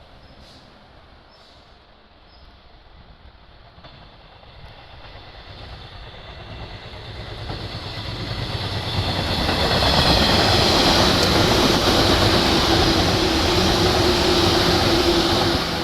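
A train approaches and passes close by. It grows louder over about six seconds into a loud, steady rush of wheels on rail with a steady hum, then drops off just before the end.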